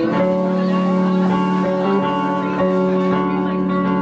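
Live band playing a song's instrumental opening, guitar to the fore, with held chords and steady notes.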